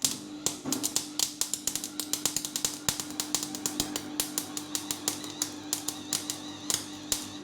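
A small MIG welder laying a tack weld on a steel exhaust: the arc crackles and pops in a rapid, irregular stream over a steady hum, and all of it stops abruptly at the end. The welder judges the wire feed speed a little too slow for this weld.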